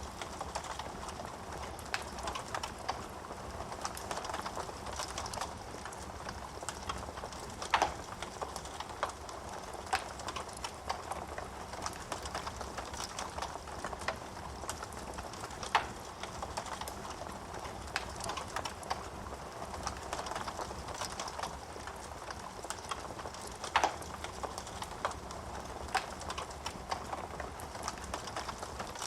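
Wood fire in a fireplace burning with a steady hiss of flame and frequent small crackles of burning wood, with three louder pops about eight seconds apart.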